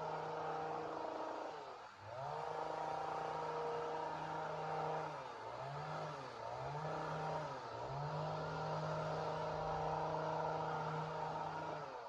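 Two-stroke chainsaw engine running at high revs. Its pitch sags and climbs back four times, once deeply about two seconds in, then three shorter dips. The engine note dies away at the very end.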